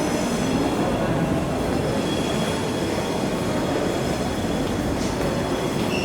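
Train running in the station: a steady rumble with faint, thin high-pitched wheel squeal over it.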